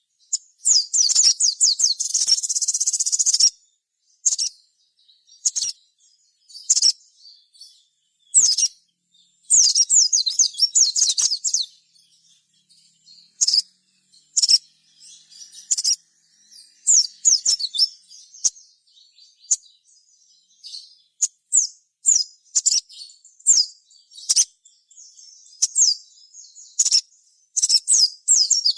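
A sogon sunbird (sogok ontong) singing: high, thin, rapid chirping phrases. A dense trill comes about a second in and again near ten seconds, with short single chirps between and a busier burst of song near the end.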